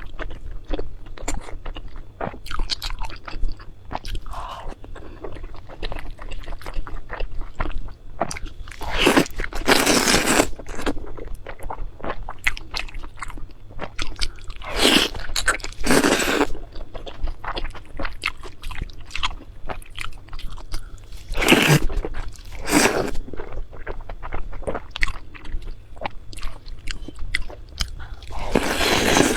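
Close-miked eating: steady chewing and biting with many small crunching clicks, broken by a few louder, longer noisy bursts spread through the stretch.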